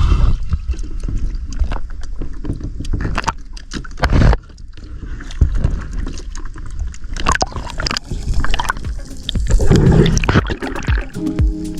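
Water sloshing and splashing around a kayak, with irregular knocks and bumps against the hull as a fish is clipped onto a stringer at the surface. Background music comes in near the end.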